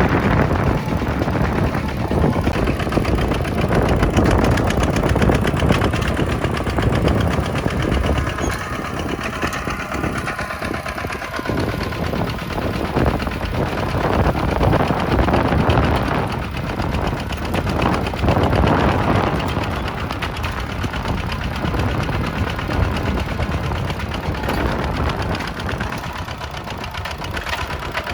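Kubota tractor's diesel engine running steadily with a fast knocking firing rhythm, its loudness swelling and easing a little as the load changes.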